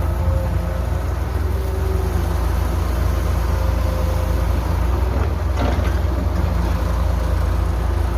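Heavy construction machine's diesel engine running steadily, with a couple of light knocks a little after halfway.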